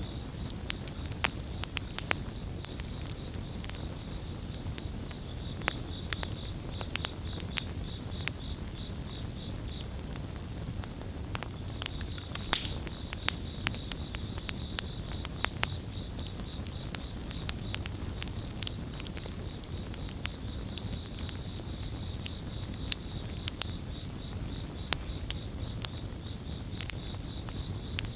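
Campfire crackling with frequent sharp pops over a low rumble, while crickets chirp in a steady pulsing trill.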